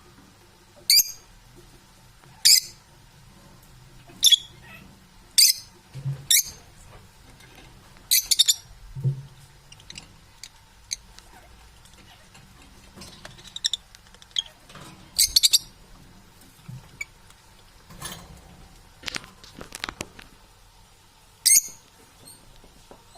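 Pet parrots giving short, high-pitched squawks and chirps, one every second or two at irregular gaps, with fainter clicks between them.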